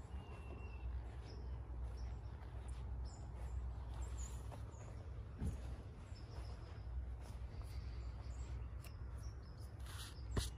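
Small birds chirping on and off over a steady low rumble. A single sharp knock comes near the end.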